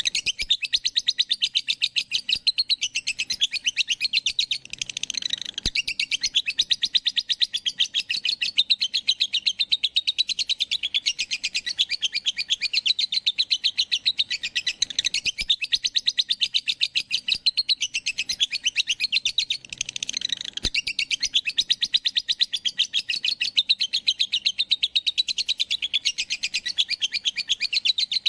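A pet bird chirping in a fast, steady run of short, high chirps, several a second, with brief breaks about 5 and 20 seconds in.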